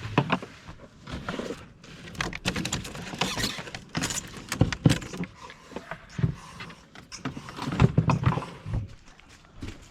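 Irregular rustling and clinking with scattered knocks, a few of them heavier about halfway through and again near the end.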